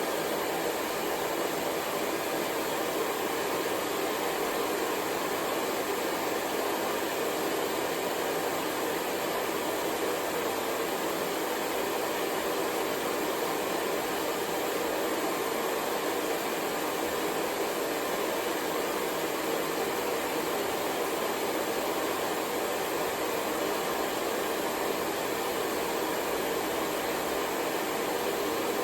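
Hair dryer running steadily, a continuous unchanging rush of air and motor noise, used as white noise for sleep.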